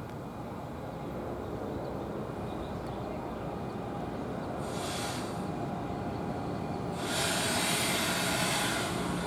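NJ Transit commuter train rumbling at the station, slowly growing louder, with a short burst of hiss about five seconds in and a longer, louder hiss about seven seconds in.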